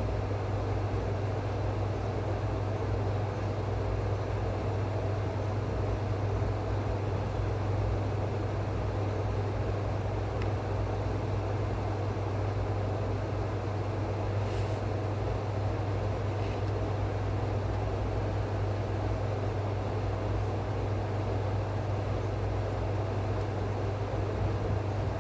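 Steady low mechanical hum with a constant background rush that never changes in level, and two faint brief ticks a little past the middle.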